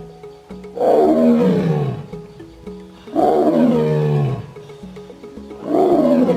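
Tiger roaring three times over background music. Each roar lasts about a second and falls in pitch, with the calls about two and a half seconds apart.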